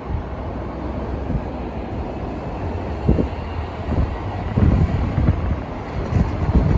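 Wind buffeting the phone's microphone outdoors: a low, uneven rumble that swells in gusts, strongest a few seconds in.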